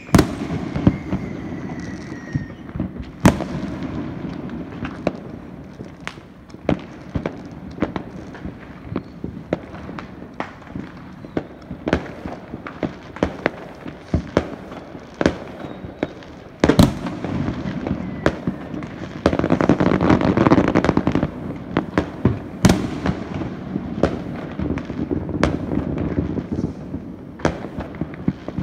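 Fireworks going off: irregular sharp bangs, sometimes several in quick succession, with one especially loud bang past the middle and a dense stretch of continuous crackling shortly after it.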